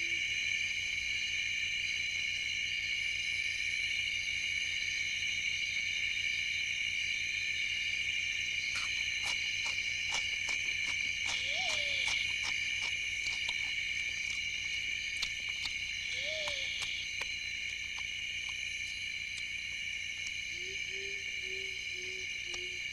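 Night rainforest chorus of insects trilling steadily and high-pitched. A scatter of clicks and two short chirping calls come in the middle, and near the end a low call starts, repeated about three times a second.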